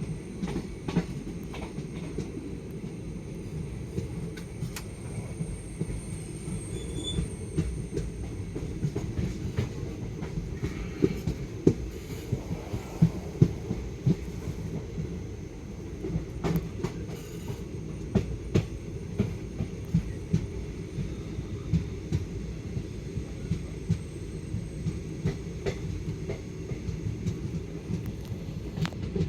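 Guruvayur–Trivandrum Intercity Express running on the track: a steady low rumble with frequent irregular clicks and knocks of the wheels over the rails.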